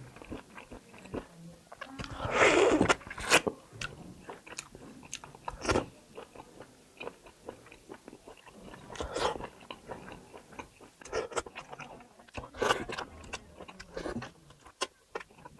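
Close-miked chewing and biting of kalij pheasant meat, wet mouth clicks with louder bursts of biting about two, six, nine and thirteen seconds in.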